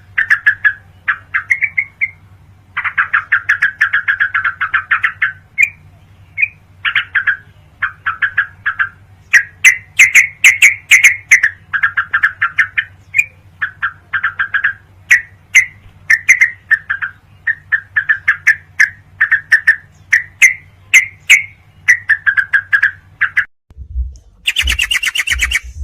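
Yellow-vented bulbul (trucukan) song: loud, rapid chattering phrases of quick bubbly notes in bursts, over a steady low electrical hum. Near the end the hum stops and the recording switches to a harsher, noisier call.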